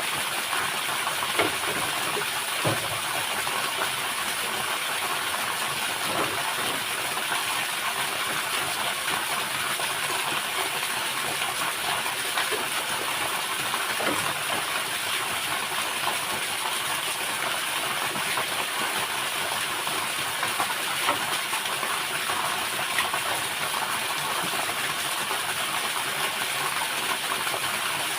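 Steady rush of a nearby waterfall, with a few faint knocks.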